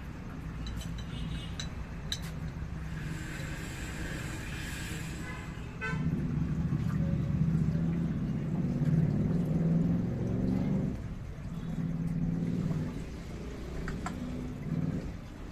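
A vehicle engine starts about six seconds in, after a quick run of clicks, and runs with a low rumble that rises and falls. A brief hiss comes a few seconds before it.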